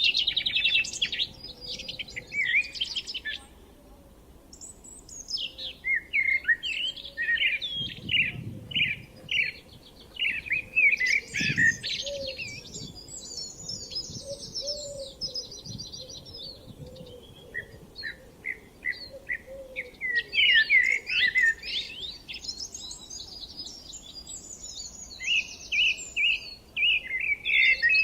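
Several songbirds singing at once in a spring chorus, quick chirps and trills overlapping, with a short lull a few seconds in.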